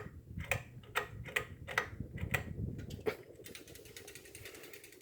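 Pull chain of a 52-inch Craftmade outdoor ceiling fan clicking against the fan's housing while the fan runs at medium speed. It ticks irregularly, about twice a second, over a low rumble that drops away about three and a half seconds in.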